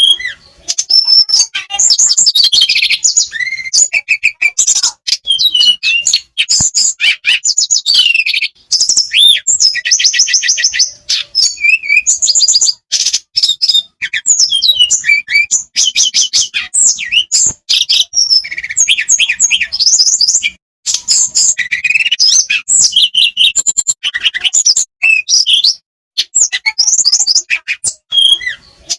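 A tledekan songbird singing a long, loud song of rapid high chirps, trills and whistles, with only brief pauses.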